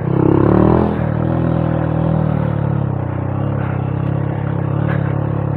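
Honda Monkey 125's single-cylinder four-stroke engine running under way, revving up and peaking in the first second, then holding a steady pitch.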